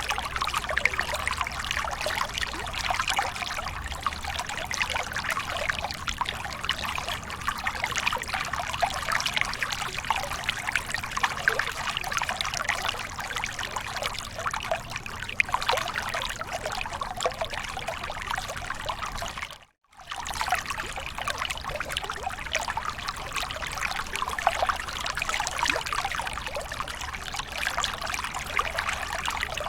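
Waterfall running in a steady trickling, splashing rush. It cuts out for a split second about two-thirds of the way through, then resumes unchanged.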